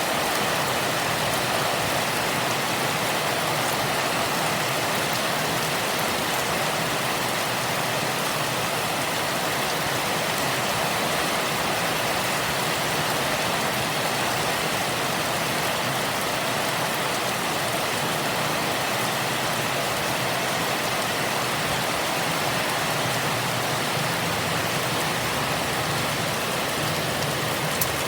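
Rain falling hard and steadily in a storm, an even, unbroken hiss.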